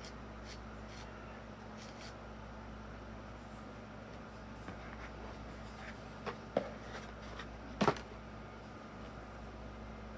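Light clicks and taps of small plastic toy parts being handled, with a few sharper clicks about two-thirds of the way through, over a steady low hum.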